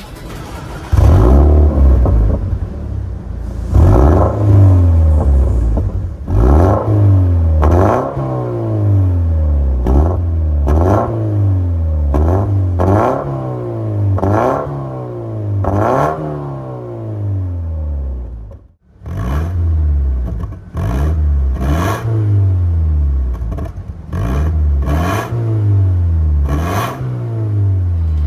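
Toyota 86's FA20 2.0-litre flat-four revved through an MS-R valved cat-back exhaust in repeated quick throttle blips, each rising sharply and falling back toward idle, over a dozen times. The sound cuts out briefly about two-thirds of the way through.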